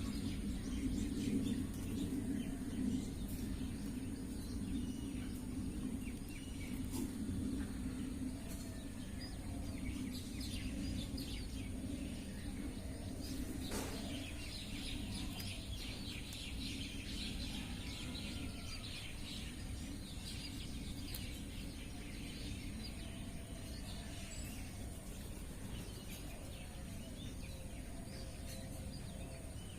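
Small birds chirping and calling, with a busier run of rapid chirps about halfway through, over a steady low background rumble and a thin, steady high-pitched tone.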